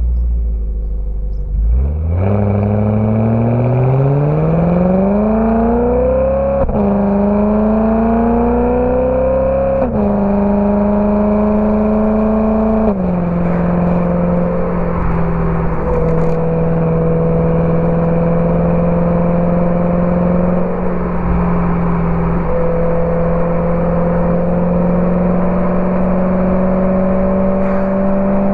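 BMW E92 M3's V8 through a Borla ATAK exhaust accelerating hard from low revs, the note climbing through the gears with three upshifts, the last about halfway through. It then settles into a steady cruise, the pitch creeping slowly up.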